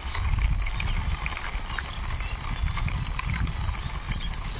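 A toy vehicle pushed by hand along a rough wall: its plastic wheels roll with a continuous low rumble and small irregular clicks and knocks.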